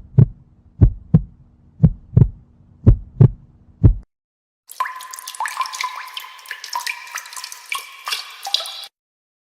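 Heartbeat sound effect: paired low thumps, lub-dub, about once a second over a faint hum, for about four seconds. After a short gap comes a different clip of water running and dripping, busy with small clicks, which stops suddenly near the end.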